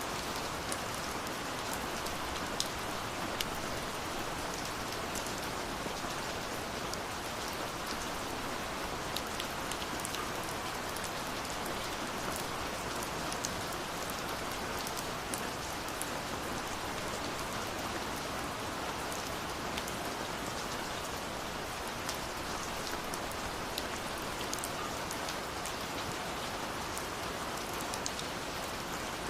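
Steady rush of falling water from a waterfall, overlaid with frequent small sharp pops and crackles of a burning wood fire.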